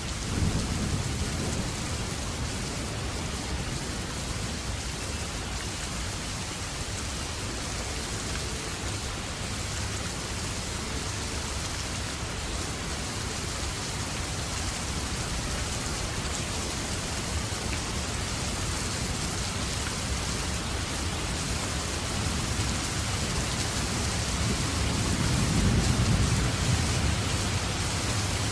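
Steady, heavy rain falling, with a low rumble that swells up briefly near the start and again near the end.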